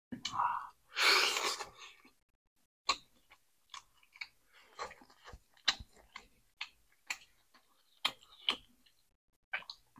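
Close-up eating sounds: a person chewing mullet fish, with many short, irregular wet clicks and crackles of mouth and teeth, after a louder noisy burst about a second in.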